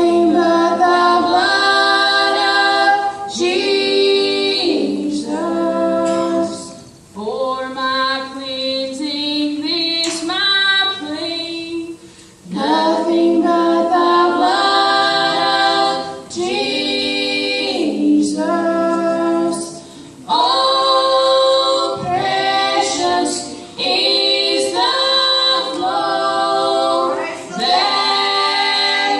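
Female vocal group singing gospel a cappella in close harmony, in phrases a few seconds long with brief pauses between them.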